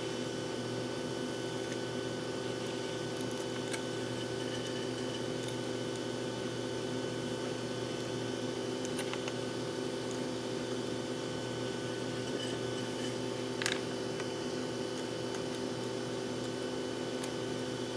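Steady machine hum with a few faint small clicks and one sharper click near the end, typical of small hand tools working on an RC car's steering turnbuckles.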